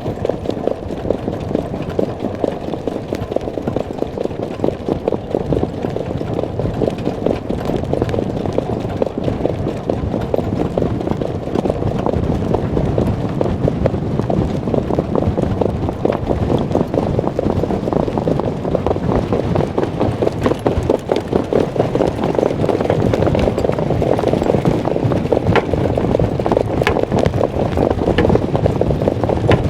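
A racehorse moving at speed, heard from a microphone on its rider or driver: hooves and gear rattling, with wind rushing over the microphone.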